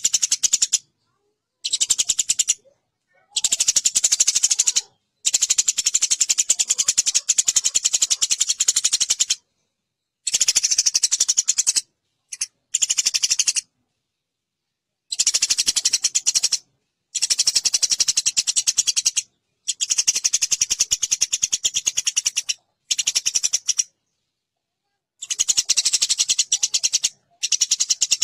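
Eurasian tree sparrows chattering in a fight: very fast, harsh strings of high chirps in bursts lasting from under a second to several seconds, each broken off by sudden gaps of dead silence.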